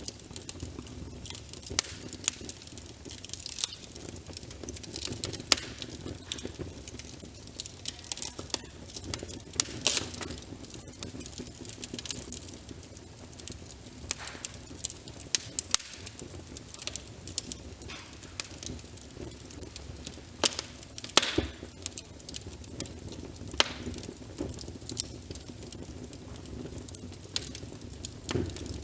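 Wood fire crackling in a fireplace, with irregular sharp pops and snaps, over a steady patter of rain.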